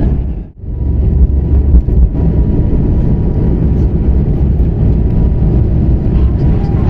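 Loud, steady low rumble of an Airbus A220-300's Pratt & Whitney PW1500G geared turbofans at takeoff power, heard inside the cabin, with a faint steady whine. The sound drops out briefly about half a second in.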